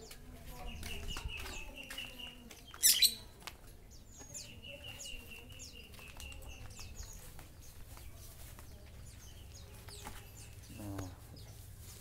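Caged birds chirping, with two long trills of rapid repeated notes and one loud, shrill call about three seconds in.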